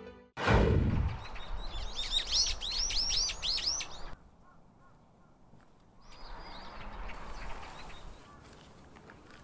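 A small bird singing a quick run of chirps, the same arching high note repeated many times, after a short burst of noise at the start. The song cuts off abruptly about four seconds in; after a brief silence, fainter outdoor noise with a few more chirps follows.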